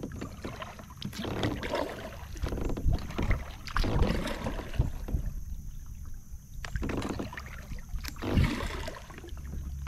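Kayak paddle blades dipping and pulling through calm water, splashing and dripping every second or two, over a steady low rumble.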